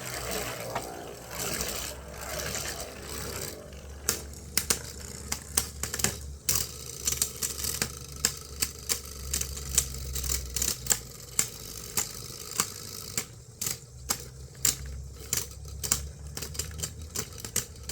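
Two plastic Beyblade spinning tops whirring in a stadium, then from about four seconds in clattering against each other in rapid, irregular clicks.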